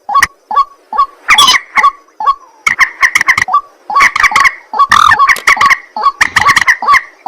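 Loud, harsh, rapidly repeated calls of rails: white-breasted waterhen (ruak-ruak) and common moorhen. The calls come in runs of several notes with short breaks between them.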